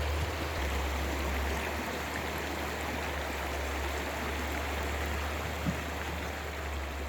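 Steady rushing noise of water over a constant low hum, with one small tap about two-thirds of the way through.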